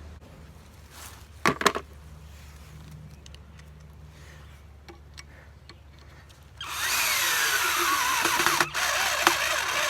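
A power drill drives a screw into wood, starting about seven seconds in. The motor pitch slides steadily down as the screw bites, with a brief break just before it stops. A single clank comes about a second and a half in.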